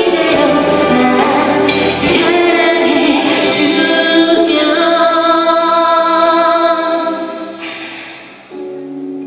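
A female singer with a live youth orchestra accompanying her, ending on a long held note over sustained orchestral chords that fades away about eight seconds in, leaving a quieter held chord.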